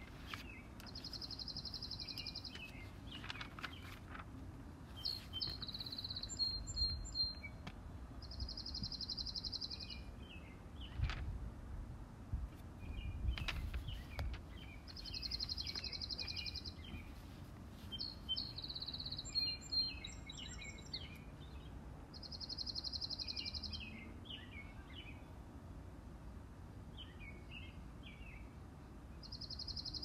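Garden birds singing: a high, even trill of about a second and a half repeats five times, roughly every seven seconds, with scattered short chirps and phrases from other birds between.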